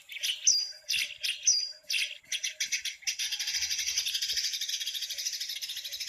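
Small birds chirping, Eurasian tree sparrows by the context: several sharp, separate chirps, two of them falling in pitch, then from about three seconds in a dense, fast, continuous chirring.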